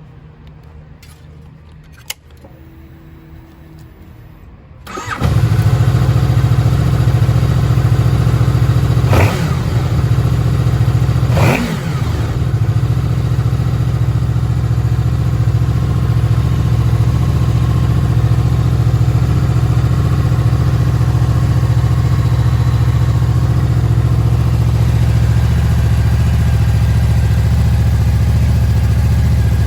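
Honda VFR800F V4 motorcycle engine starting. After a click and a faint brief hum, it catches about five seconds in. The throttle is blipped twice, and then it settles into a steady idle.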